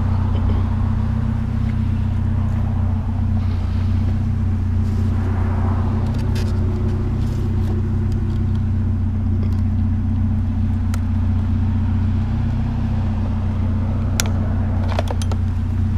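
Car engine running steadily, a constant low hum, with a few short clicks and knocks near the end.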